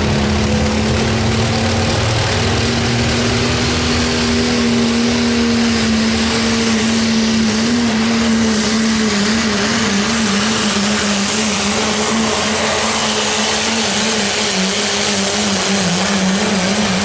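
3.0-litre diesel pickup engine running hard under load while pulling a sled. Its pitch holds steady at first, then wavers up and down over the last several seconds.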